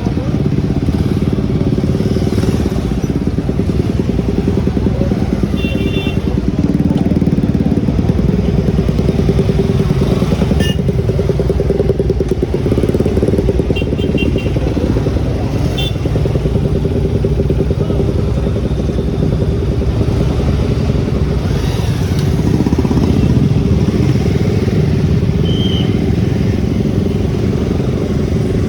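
Motorcycle engine running steadily on the move, loud and continuous, with a few short high beeps now and then.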